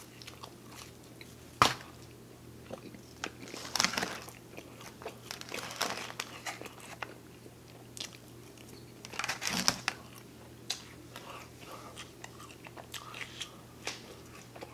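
Close-miked eating sounds: bites and crunching chews of pizza crust and crisp lettuce salad. A sharp click comes about one and a half seconds in, with louder crunchy spells around four and nine seconds in.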